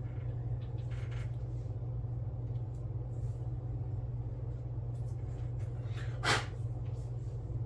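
A steady low hum with faint small clicks and scrapes of hand work on the model, and one short sharp hiss-like noise about six seconds in.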